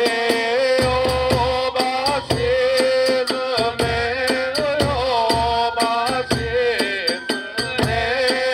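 Kagura hayashi music: a bamboo flute holds and bends long melody notes over quick, steady drum beats and the rattle of small hand cymbals.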